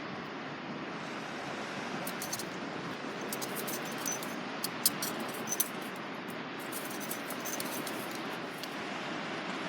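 Small metal pieces clinking and rattling as they are handled, a run of sharp clicks with little high rings, the loudest about five seconds in. Under it runs a steady rushing background noise.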